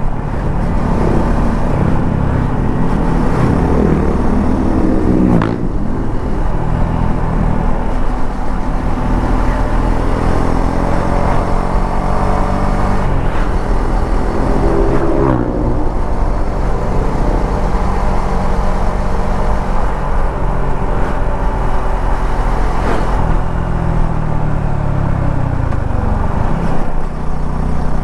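Suzuki V-Strom 250 SX's single-cylinder engine running on the move, its pitch rising and falling several times with the throttle. A steady low rumble sits underneath, with a few short clicks.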